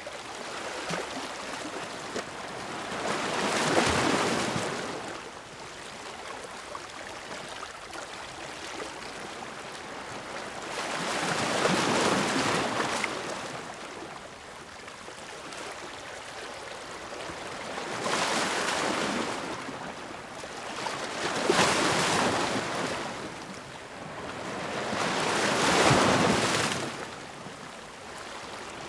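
Sea waves crashing against rocks: five waves break, a few seconds apart, each swelling up and washing away, with a steady rush of surf between them.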